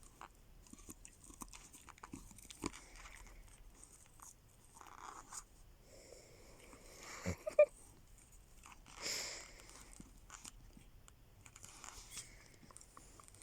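Puppy chewing and gnawing at something in its mouth: scattered small crunching clicks and crackles, with a sharper, louder snap about seven and a half seconds in and a brief rustle just after nine seconds.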